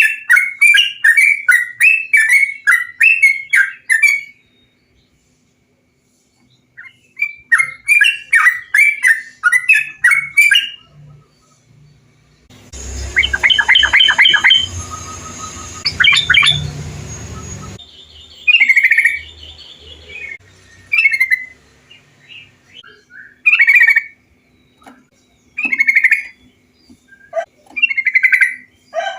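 Recorded song of trucukan bulbuls: bouts of rapid, bubbling chattering notes, then a pause. Next comes a stretch taken from a noisier recording with hiss and a low rumble under the song, followed by separate short whistled phrases.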